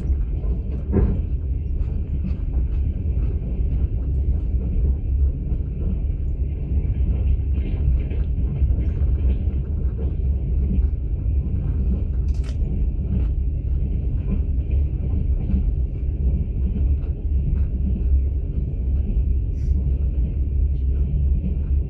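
Steady low rumble of a long-distance passenger train in motion, heard from inside an open-plan sleeper carriage, with faint scattered clicks and knocks.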